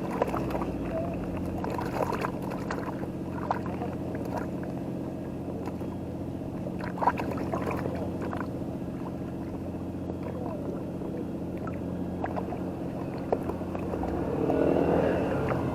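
An engine running steadily, with scattered light clicks and knocks and a brief swell of noise near the end.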